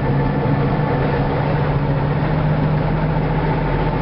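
Case 504 six-cylinder diesel of a Case 2290 tractor running steadily just after a cold start at about freezing, the block heater not plugged in.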